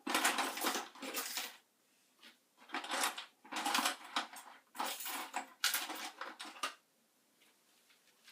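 Hard objects clattering and clinking, as when rummaging through tools or small parts, in five or six bursts of about a second each that stop a little before the end.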